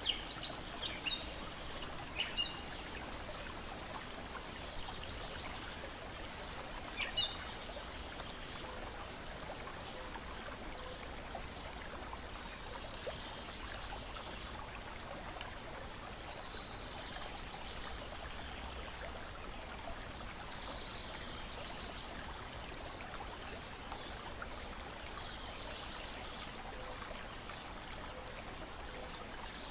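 Steady sound of water gently lapping and trickling, with a few short bird chirps in the first couple of seconds and again about seven seconds in.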